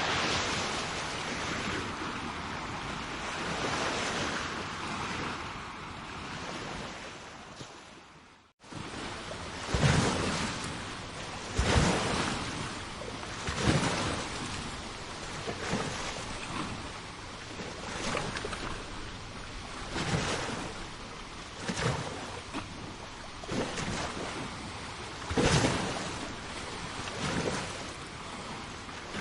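Sea waves washing in a steady surging hiss, which breaks off briefly a third of the way in; after that come sharper splashes of water about every two seconds.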